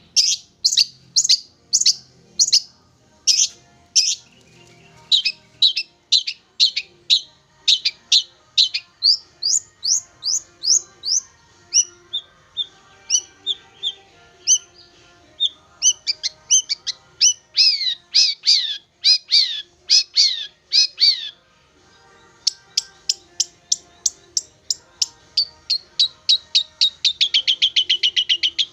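Long-tailed shrike (cendet) calling: a long series of sharp, downward-sweeping notes about two a second, with a softer, varied warble in the middle. Near the end it breaks into a quick, accelerating run of notes.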